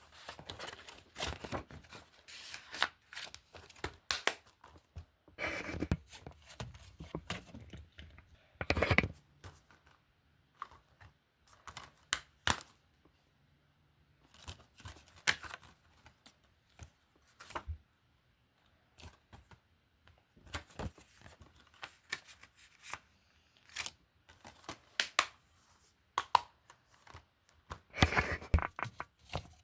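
Cases from a film and TV collection being handled: irregular plastic clicks, knocks and rustling, with brief pauses.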